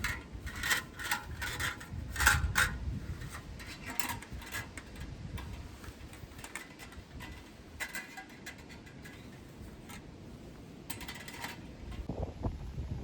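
Light metallic clinks and clatter, small metal objects knocking together: a quick run of them in the first few seconds, then a few more later.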